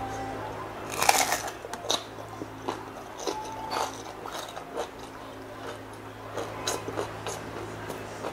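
Crunching bites and chewing of crispy deep-fried pork knuckle skin (crispy pata). The loudest crunch comes about a second in, followed by smaller scattered crunches.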